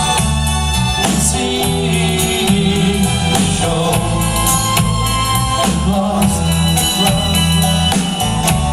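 Live folk band playing a song, with singing over the instruments and a steady percussion beat.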